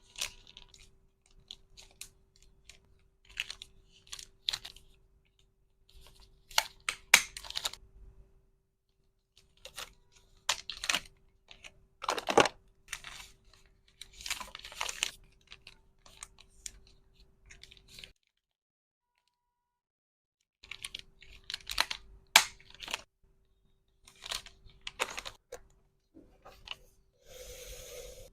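Hands packing resin hair clips: irregular clicks, taps and short crinkly rustles of plastic packaging, with a faint steady hum underneath and a brief silent gap past the middle.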